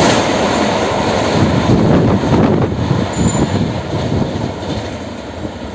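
Express passenger train passing close by, its wheels rumbling on the rails, the sound dying away over the last few seconds as it moves off.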